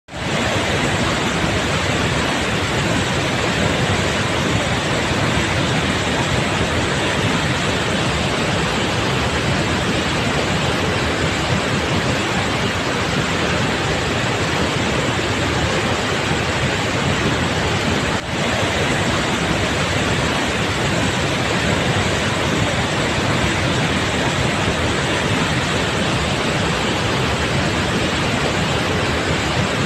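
A waterfall's water rushing down in a loud, steady, even noise that cuts in suddenly at the start, with one momentary dip about two-thirds of the way through.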